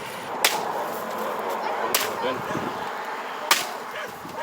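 Axe striking dry firewood: three sharp chops about a second and a half apart.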